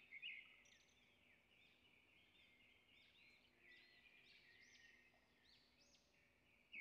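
Faint bird chirping: many short, quick chirps repeating throughout, heard under near silence.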